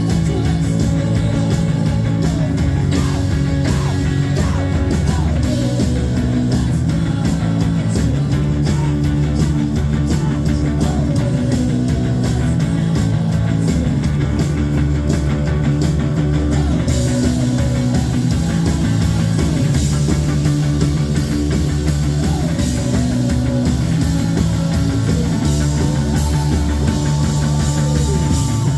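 Live rock band playing a song: electric guitars, bass and drums, with sung vocals. The cymbals get louder and brighter about halfway through.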